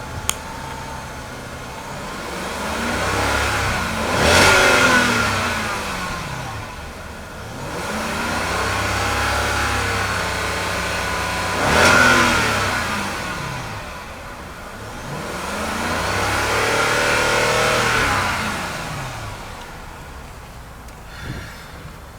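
2010 Hyundai Genesis's Tau 4.6-litre DOHC V8, already partly warm, revved from idle three times, the engine pitch climbing and falling back each time. The first two revs peak sharply, and the third is held a little longer before it drops back to idle.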